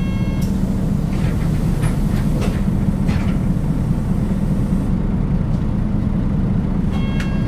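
Interior running sound of a Nissan Diesel KL-UA452KAN city bus under way: a steady diesel engine drone with deep rumble and occasional rattles in the cabin. A brief ringing tone sounds right at the start and again near the end.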